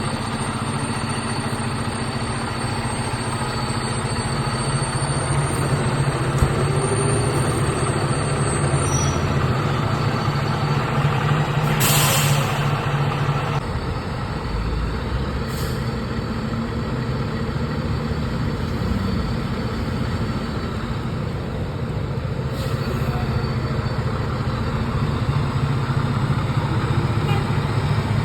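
Heavy fire truck engine running steadily, its note dropping about two-thirds of the way through. About 12 s in there is a loud burst of air-brake hiss, with fainter short hisses later.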